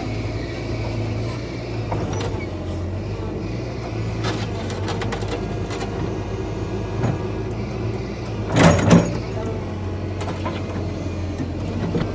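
Diesel engine of heavy earthmoving equipment running steadily, with scattered knocks and clanks and two loud bangs in quick succession about two-thirds of the way through.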